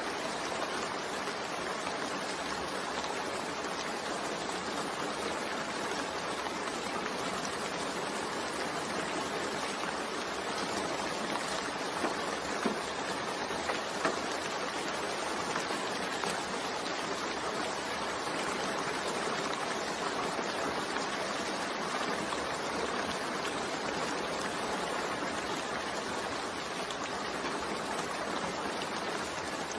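Steady rain falling in a dense, even hiss, with a few louder drop ticks about halfway through.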